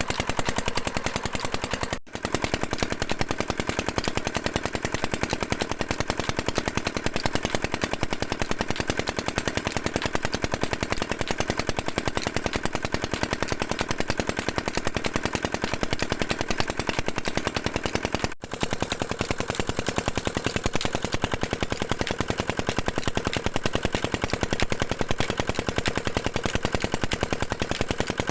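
R180 single-cylinder diesel engine running steadily under load with a fast, even chatter of exhaust beats. The sound drops out for an instant about 2 seconds in and again about 18 seconds in.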